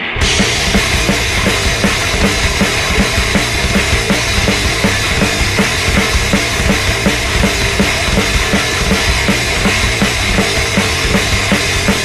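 Heavy rock band playing: the full band comes in hard at the start after a thinner, muffled passage, and the drum kit keeps a steady beat of about three hits a second under dense guitar and bass.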